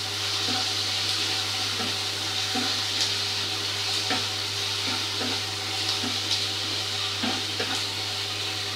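Diced onions, capsicum and green chillies with garlic paste sizzling steadily in a wok, stirred with a spatula that scrapes and knocks against the pan every second or so.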